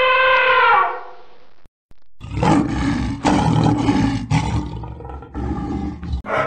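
An elephant's trumpet call, one steady high note that sags and ends about a second in. After a short gap, a tiger gives a rough, pulsing roar lasting about four seconds.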